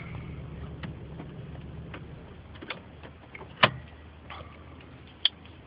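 2001 Audi S4 twin-turbo engine idling as a low hum that fades after about two and a half seconds, with scattered sharp clicks over it. The loudest click comes about three and a half seconds in, and another near five seconds.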